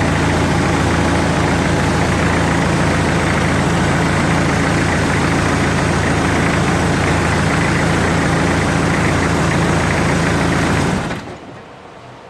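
Hyundai D4BH 2.5-litre four-cylinder turbodiesel idling steadily, then shut off about eleven seconds in.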